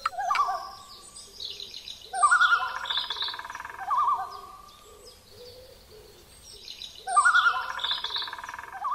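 Bird calls: a short call at the start, then two long wavering calls about two and seven seconds in, with higher chirps over them.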